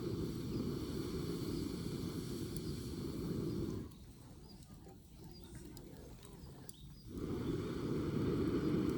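Low rumbling rush of air on the microphone that stops abruptly about four seconds in and comes back about three seconds later.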